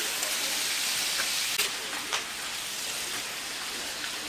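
Chopped pork offal, kidneys and intestines, sizzling steadily in its fat on a large flat griddle, with two sharp clicks about halfway through.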